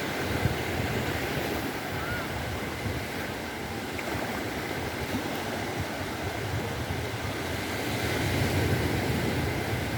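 Sea waves washing onto the beach in a steady wash of surf, swelling slightly about eight seconds in.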